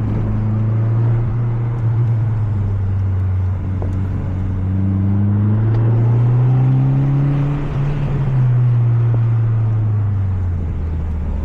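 Mazda 3 MPS's 2.3-litre turbocharged four-cylinder engine running under load, its note rising slowly for a few seconds and then easing back down.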